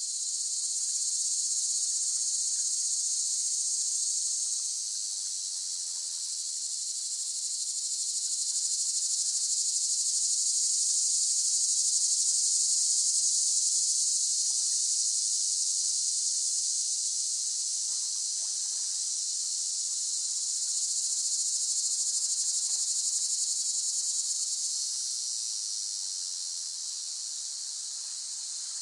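Cicadas singing in chorus: a continuous, high-pitched shrill buzz that swells and eases every several seconds.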